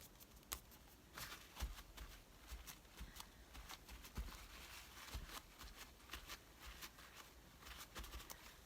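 Paper being handled at a craft table: faint, irregular rustling and light taps as paper cutouts are picked up, shifted and laid down.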